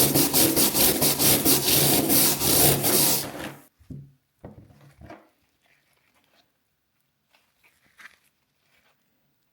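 Rapid back-and-forth rasping strokes, about four or five a second, of hand scrubbing on rusty iron, which stop about three and a half seconds in. A few short scrapes and knocks follow, then faint handling sounds.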